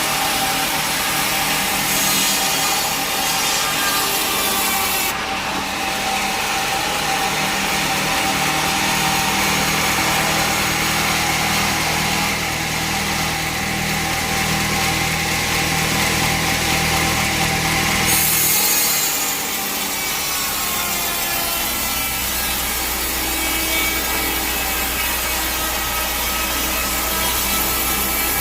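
Bandsaw sawmill cutting a teak log: loud, continuous sawing. The sound changes about five seconds in and again about eighteen seconds in.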